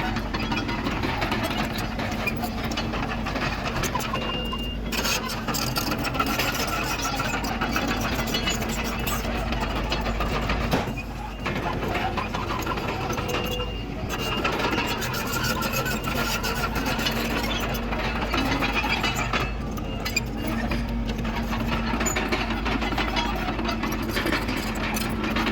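Diesel engine of heavy earthmoving machinery running steadily, with a brief dip about eleven seconds in.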